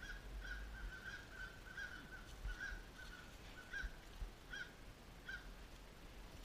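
A bird calling: a quick run of short calls, about three a second, that slows to a few calls spaced a little under a second apart and stops about five seconds in.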